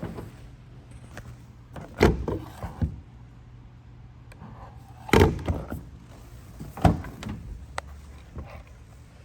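Clunks of a Ford Maverick pickup's doors or lids being opened and shut: three loud ones about two, five and seven seconds in, with lighter clicks between, over a low steady hum.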